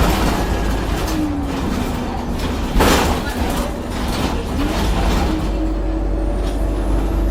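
Diesel bus engine heard on board, its note dropping and then climbing again as the bus changes speed, with a short loud hiss about three seconds in. A faint high turbo whistle rises near the end.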